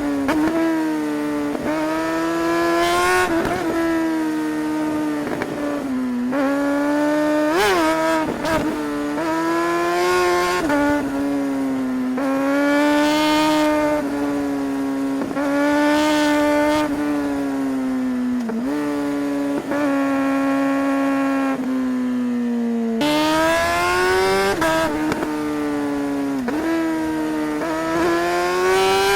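Suzuki GSR 600's inline-four engine pulling hard through the gears under acceleration. Its pitch climbs and then drops sharply at each quickshifter upshift, over and over, with a short stretch of steady running near the middle.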